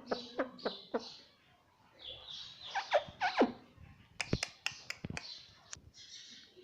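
Ringneck parrot chattering in short falling squeaks and raspy notes, pausing briefly about a second and a half in, then giving a run of sharp clicks after the middle.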